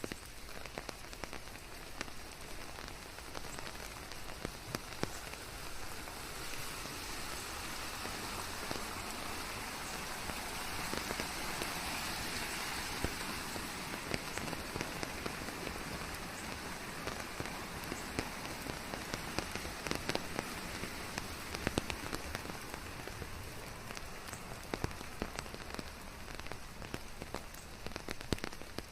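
Steady rain falling, a continuous hiss with many separate drops ticking sharply over it; the rain swells louder for several seconds around the middle.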